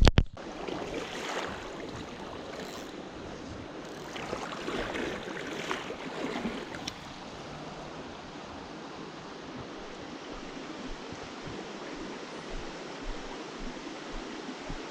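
Spring creek water flowing steadily, an even rushing hiss. A short sharp knock comes right at the start, and some uneven louder rustling comes and goes over the first several seconds.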